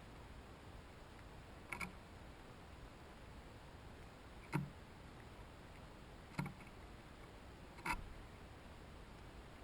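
Four sharp taps or knocks, a second and a half to three seconds apart, over a faint steady hiss.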